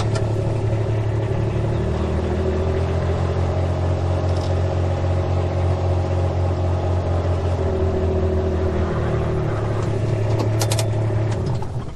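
Motor vehicle engine running steadily. Its pitch drops about two seconds in and rises again around nine seconds, and it cuts off just before the end.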